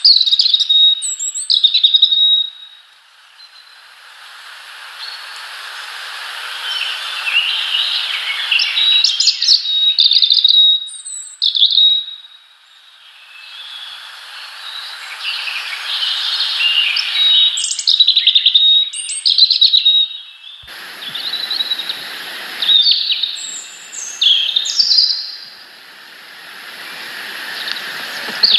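Small birds chirping and calling repeatedly in short chirps and trills. Under them, a rushing noise swells up and dies away twice.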